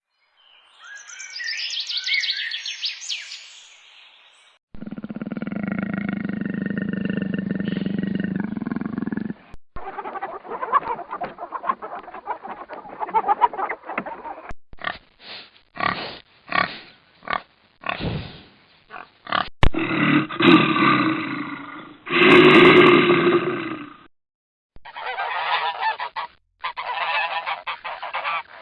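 A string of separate animal-call clips cut one after another: high, quick chirping calls for the first few seconds, then a long low call, then runs of short, loud, repeated calls with abrupt cuts between them.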